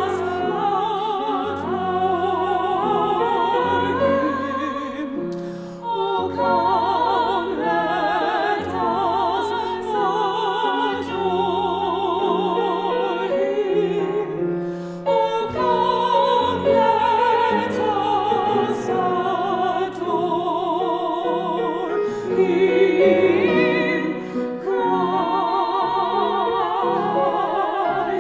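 Soprano and mezzo-soprano singing an Italian Christmas carol as a duet in trained operatic style, with wide vibrato and two vocal lines moving together over piano accompaniment. The singing breaks briefly twice for breaths between phrases.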